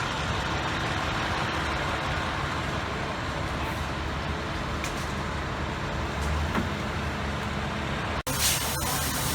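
A large vehicle's engine idling with a steady low rumble. About eight seconds in, the sound cuts out for an instant and comes back with a brighter hiss.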